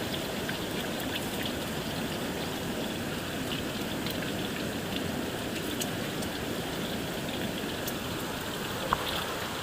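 Steady hiss of water, like rain falling on foliage, with scattered small drip-like ticks and one sharp click about nine seconds in.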